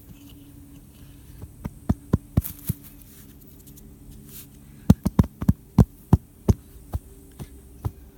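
A series of about fifteen sharp, irregular knocks and thuds in two spells, the second quicker and louder, over a faint steady hum.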